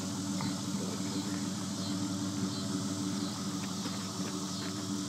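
2004 Ford Mustang GT's 4.6-litre V8 idling steadily, its exhaust running through an off-road H-pipe with the catalytic converters cut off and the stock mufflers.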